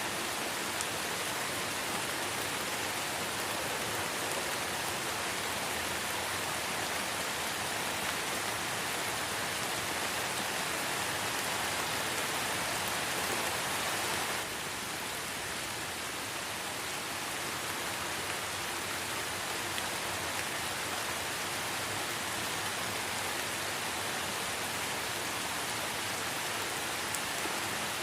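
Light rain falling steadily, an even hiss of many drops with no single drops standing out; the level drops slightly about halfway through.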